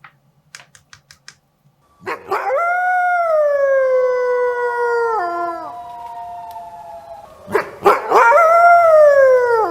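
Wolf howling: one long howl that starts about two seconds in, slowly falls in pitch and fades out, then a second howl near the end that rises and then falls. A few faint clicks come before the first howl.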